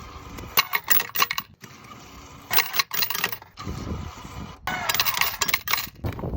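Clinking and clattering of small hard objects, in three bursts of about a second each.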